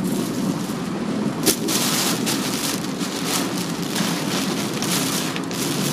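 Heavy typhoon rain and wind battering a moving car, a dense steady patter with rushing noise and a low road rumble. There is a sharp single hit about a second and a half in.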